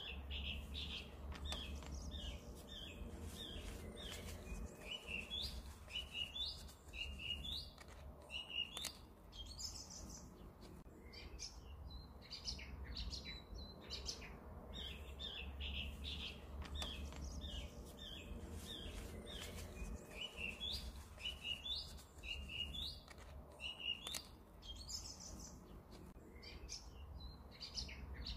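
Small birds chirping, short high notes repeating over and over, above a faint steady low hum.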